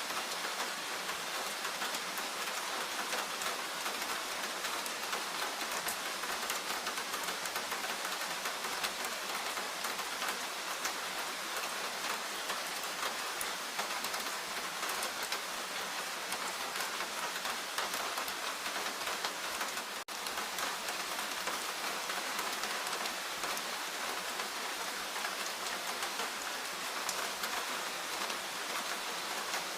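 Steady rain falling, an even hiss of countless small drop hits with no let-up. There is a momentary dropout in the sound about two-thirds of the way through.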